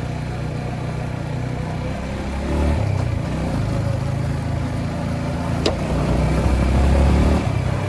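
Yamaha MT-15 motorcycle's single-cylinder engine running while being ridden, with a low rumble that swells twice. A single sharp click about five and a half seconds in.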